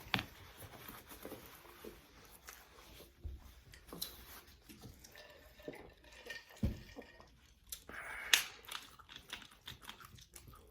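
Quiet mukbang eating sounds: chewing, with scattered small clicks and crinkles of food and containers being handled, and a louder clatter about eight seconds in.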